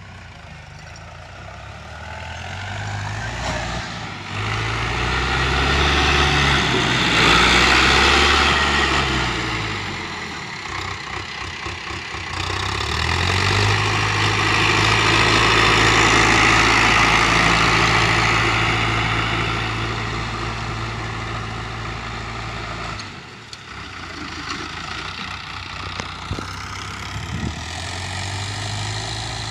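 Preet tractor's diesel engine running hard, its speed rising and falling for the first several seconds, then held steady. About 23 seconds in it cuts off abruptly and comes back lower.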